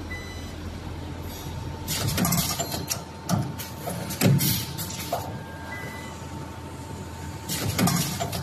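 Automatic wire ring looping and butt welding machine running through its cycle. Irregular clunks, each with a short hiss, come about a second apart over a steady hum.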